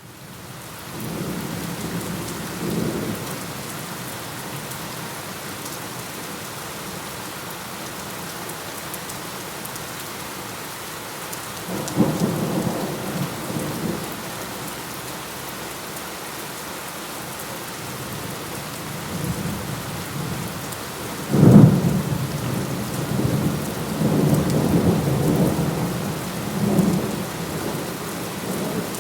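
Steady heavy rain with thunder, starting from silence. Low rumbles of thunder come and go several times. About two-thirds of the way through there is a sharp, loud thunderclap, followed by rolling rumbles.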